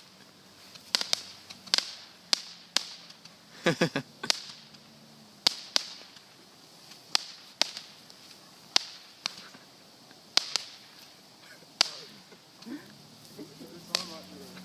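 Fireworks going off, a rapid string of about twenty sharp cracks and bangs at irregular gaps of half a second to a second and a half.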